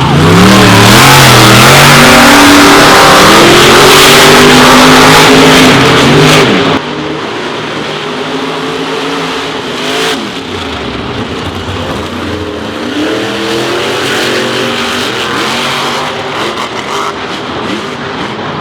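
Racing truck engine revving hard, its pitch climbing and falling repeatedly. About seven seconds in, the sound cuts abruptly to a quieter engine, still revving up and down.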